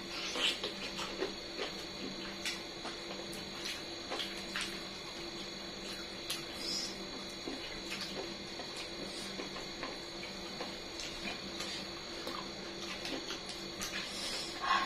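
Close-miked eating: scattered small clicks and smacks of chewing and handling food, over a steady background hum.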